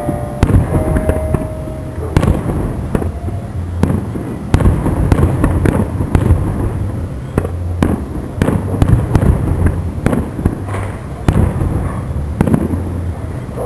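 Fireworks display: aerial shells launching and bursting in an irregular run of bangs and crackles over a constant low rumble.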